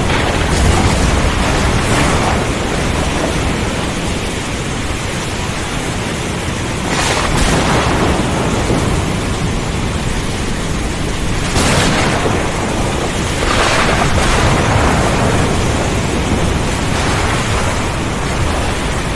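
Thunderstorm with heavy rain: a dense, steady rush of rain under a continuous low rumble of thunder, with a few brief louder surges along the way.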